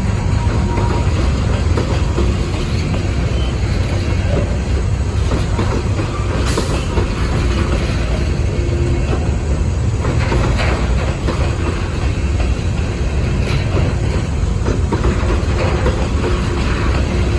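Loaded covered hopper cars of a freight train rolling past close by: a steady rumble of steel wheels on the rails, with faint squealing that comes and goes.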